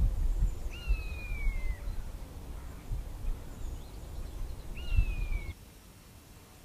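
A bird gives two long calls about four seconds apart. Each flicks up in pitch and then slides slowly down. Underneath is a low rumble that cuts off abruptly near the end.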